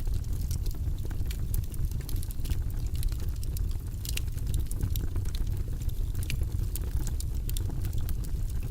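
Wood fire burning in a fireplace, with a steady low rumble of flames and frequent small, sharp crackles and pops from the burning logs.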